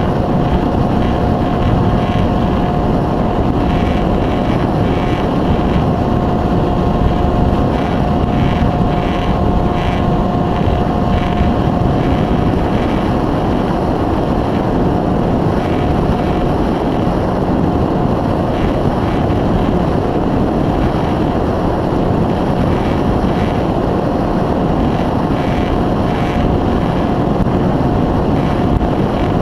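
Electric motor and propeller of an Easystar 2 RC foam plane running with a steady high whine, under heavy wind rumble on the microphone.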